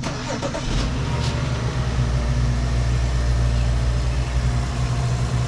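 Car engine idling with a steady low hum that grows fuller just under a second in, with a couple of brief clicks about a second in.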